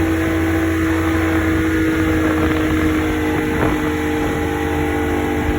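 Motorboat engine running steadily, its drone holding an even pitch.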